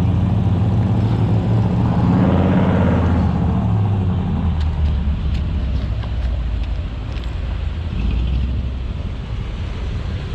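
Car engine running at low speed as a car rolls slowly past, loudest in the first few seconds and then easing off.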